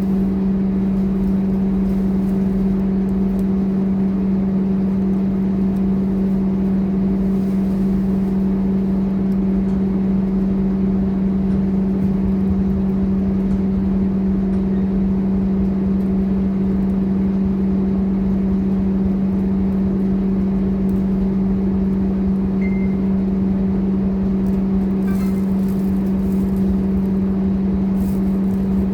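Scania K230UB single-deck bus running, heard from on board: a steady drone and rumble with a constant low hum that does not change in pitch.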